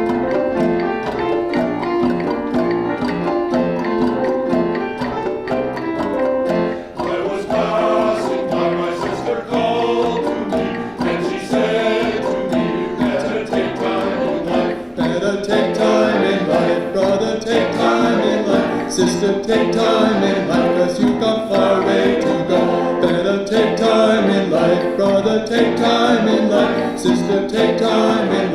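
Community choir singing with instrumental accompaniment; the sound grows fuller about seven seconds in and again about halfway through.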